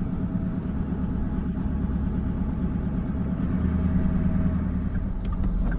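Engine and road noise of a moving vehicle heard from inside its cabin: a steady low hum.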